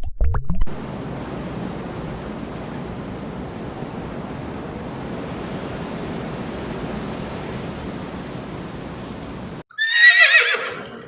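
A steady background hiss, then near the end a loud whinny from a horse-type animal, quavering and falling in pitch over about a second and a half.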